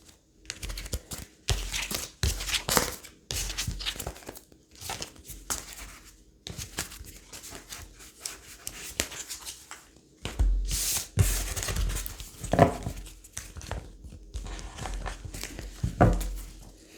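Tarot cards being shuffled and handled: an irregular run of papery riffles, flicks and slaps.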